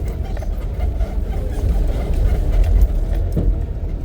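Safari vehicle driving along a forest track: a steady low engine and road rumble.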